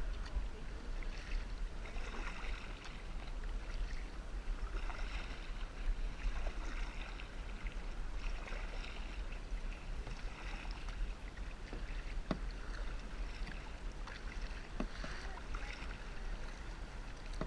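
Ocean water sloshing and splashing against a kayak, with washes every second or two and a couple of small knocks, over a steady low rumble of wind on the microphone.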